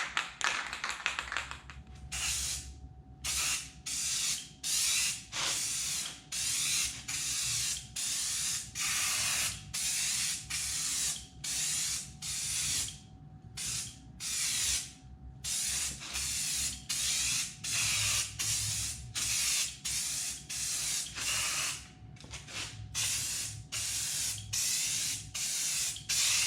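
Aerosol spray can of black truck bed coating hissing in short, rapid bursts, about one and a half a second, as a thin coat is laid on.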